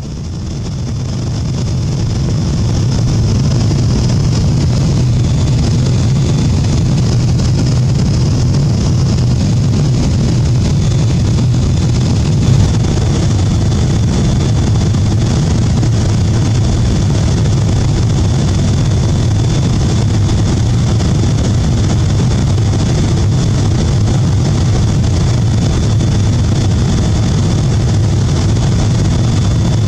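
Steady cabin noise inside a Boeing 777-200 in flight: a deep engine hum and rushing airflow with a faint high whine held throughout, fading in over the first couple of seconds.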